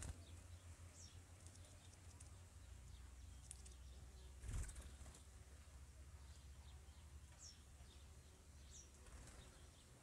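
Faint wing flaps of small birds flying off, a brief flutter at the start and a louder burst about halfway through, with a few short, high, downward-sliding chirps scattered through over a steady low rumble.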